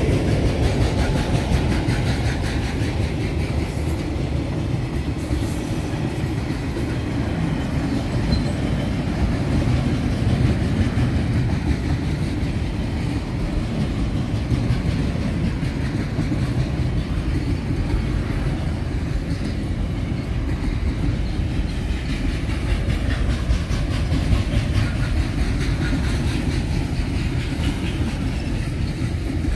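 A freight train of loaded container flat wagons rolling past: a steady rumble of steel wheels on the rails, with a continual run of clicks as the wheels pass over the rail joints.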